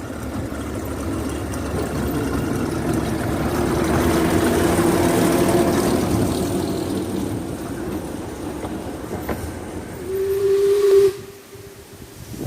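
Narrow-gauge steam train of the Talyllyn Railway running past, its noise swelling to a peak around the middle and easing off. About ten seconds in there is one short whistle blast that cuts off suddenly.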